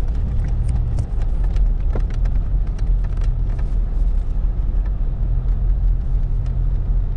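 Jeep driving slowly over rough ground: a steady low engine and tyre rumble with scattered knocks and rattles.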